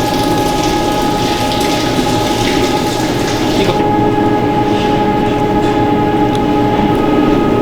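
Steady running of food-processing machinery: a loud, even hum carrying several fixed whining tones, with a hiss above it that cuts out about four seconds in.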